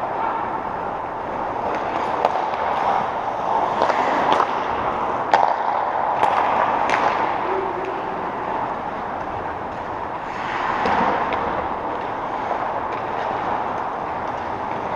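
Echoing arena sound of a game in play: a steady hubbub of players and onlookers, with a string of sharp cracks of sticks striking in the middle.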